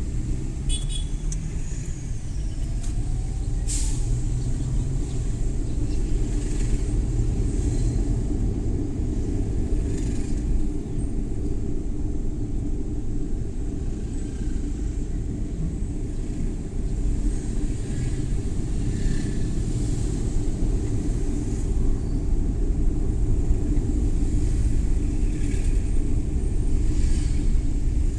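Suzuki Every Wagon (DA64W) kei van driving: its K6A three-cylinder engine and road noise make a steady low rumble, with short rushes of higher noise now and then and a sharp click about four seconds in.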